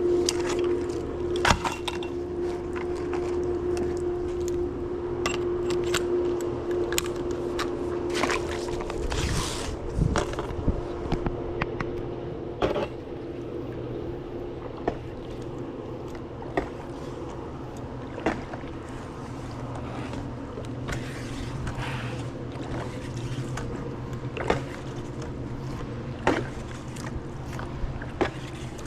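Pool brush working in the water, scraping and swishing, with frequent sharp clicks and knocks from handling. Underneath runs a steady hum, most likely the pool pump.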